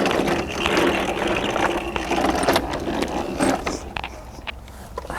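A lawnmower engine being cranked over and over without catching, with mechanical clicking and rattling.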